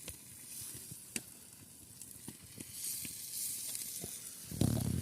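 A faint sizzling hiss with scattered light crackles, swelling a little after about three seconds, then a short low rumble near the end.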